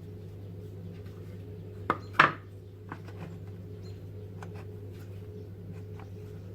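Dishes clinking: two sharp knocks close together about two seconds in, the second the loudest with a brief ring, then a few light taps. A steady low hum runs underneath.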